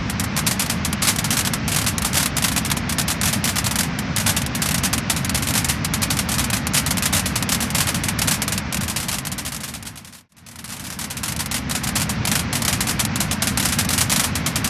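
Wood-burning fire crackling and popping, a dense run of small crackles over a steady hiss. About ten seconds in it fades briefly to near silence and comes straight back.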